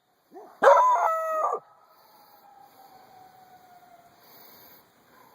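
Two dogs calling to each other. A nearby dog gives a loud, short yelping call lasting about a second. Then a distant dog's long howl slowly falls in pitch, and another faint howl begins near the end.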